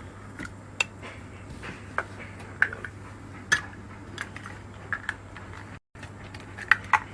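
Scattered light clicks and clinks of small hard objects being handled, over a faint steady low hum; the sound cuts out briefly about six seconds in.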